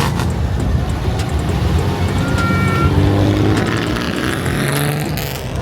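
A car engine running, with a brief high tone about two and a half seconds in.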